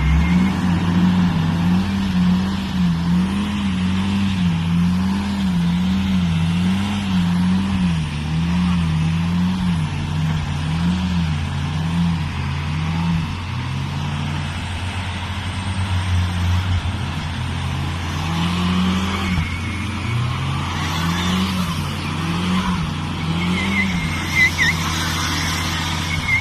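Audi A3 1.8T quattro's turbocharged four-cylinder engine labouring under load while it tows a heavy fuel truck. A steady low drone runs beneath a higher tone that wavers up and down about once a second, and a few short high squeaks come near the end.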